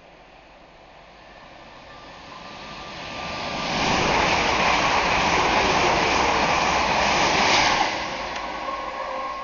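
Train running through the station: a rushing noise builds over about four seconds, stays loud for about four seconds, then falls away sharply.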